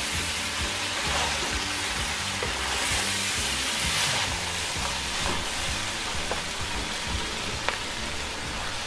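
Noodles, chicken and vegetables sizzling in a hot frying pan as they are stirred and tossed with a wooden spatula, with a few sharp ticks near the end. Background music plays underneath.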